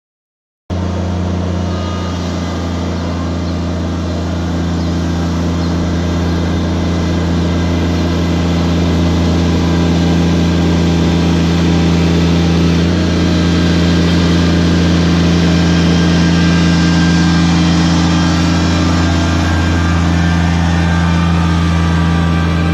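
Kubota BX2360 compact tractor's three-cylinder diesel engine running steadily under a heavy pulling load, towing a loaded-down truck by chain. The sound cuts in abruptly just under a second in.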